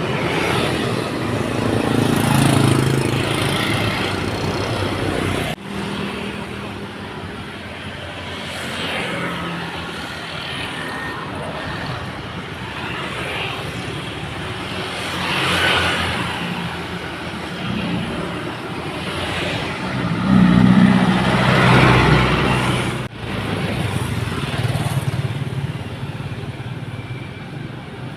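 Heavy dump trucks' diesel engines running as loaded trucks pass one after another, the engine note swelling and fading several times and loudest a little past two-thirds through. The sound breaks off abruptly twice.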